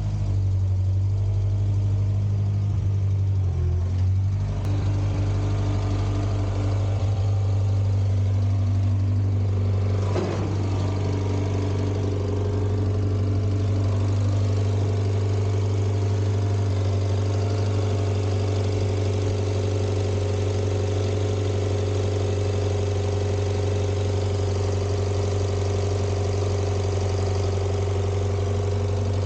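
A 1960s baggage tractor's Volvo four-cylinder gasoline engine running at a steady speed, its note shifting slightly about four seconds in.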